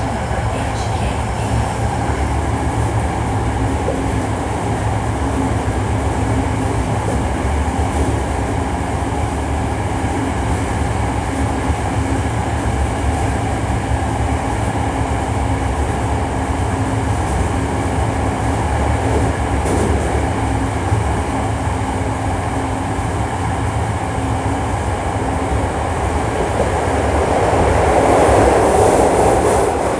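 Hankyu 1300 series electric train running, heard from inside the car: a steady rumble of wheels on rail with a held motor tone. The car is one known for an unusual noise when accelerating and braking. The rumble swells louder near the end.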